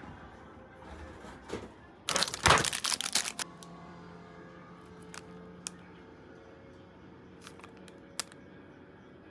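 A short burst of crinkling and crackling about two seconds in, then a few scattered sharp clicks.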